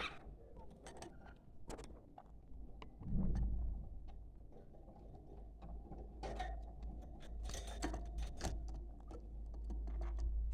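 Budgerigars making scattered sharp clicks and ticks with a few short high chirps, over a steady low rumble.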